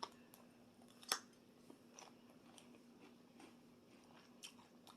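Near silence with a faint steady hum and a few soft mouth clicks of quiet chewing, the loudest about a second in.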